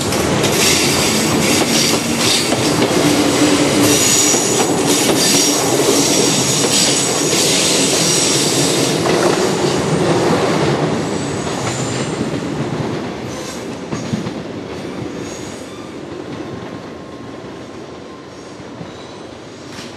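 Kintetsu 16000-series limited express electric train running on the rails, its wheels clacking over the joints, with a high wheel squeal at times. The sound fades steadily over the second half as the train pulls away across the station points.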